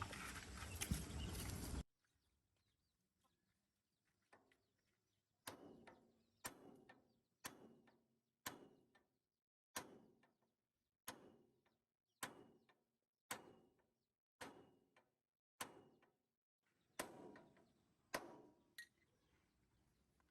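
A loud, even noise stops suddenly about two seconds in, followed by a slow, regular series of sharp knocks, about one a second.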